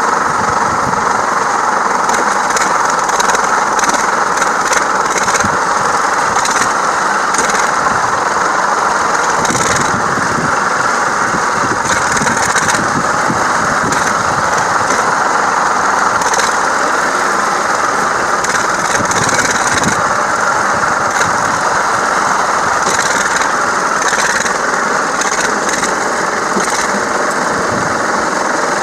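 Tractor engine running steadily, with scattered light rattles and clicks.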